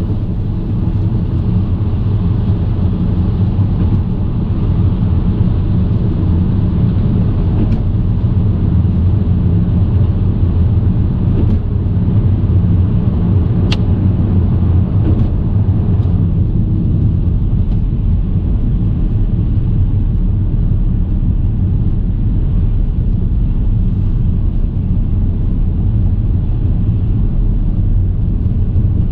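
A car being driven at road speed: steady low road and engine rumble, with a sharp tick about halfway through.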